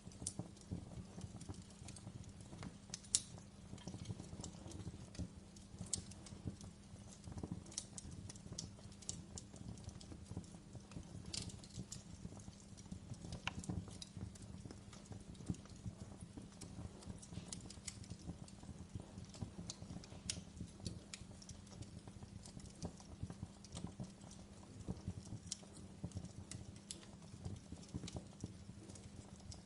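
Wood fire burning in a fireplace: logs crackling with many small irregular pops over a low steady rumble of the flames, one sharper pop about three seconds in.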